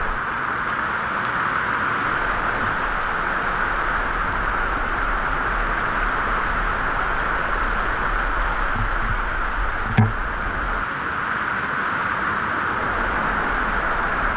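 Steady rushing of a waterfall, an even wash of falling water, with a single knock about ten seconds in.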